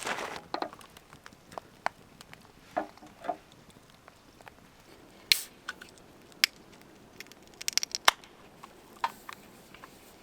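Close-up camp cooking and eating sounds: scattered clicks, taps and small crunches of utensils and food being handled, with a cluster of sharper clacks past the middle.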